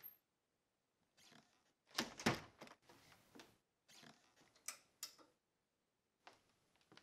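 Scattered knocks, scrapes and clicks of a person moving about a quiet room, with the two loudest knocks about two seconds in and two sharp clicks near five seconds.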